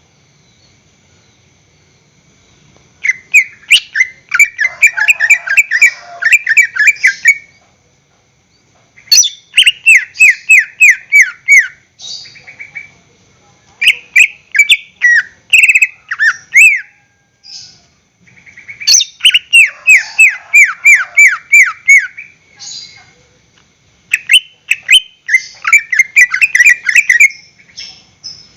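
A green leafbird (cucak ijo) singing in five bursts of fast, repeated down-slurred notes, each phrase two to four seconds long with short pauses between.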